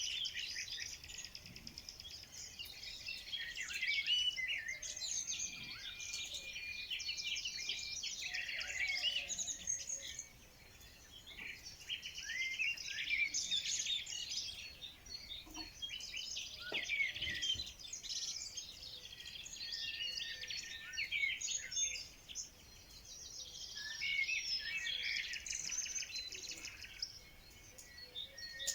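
Several songbirds chirping and singing together in a dense, overlapping chorus of quick high trills and chirps, with a few short lulls.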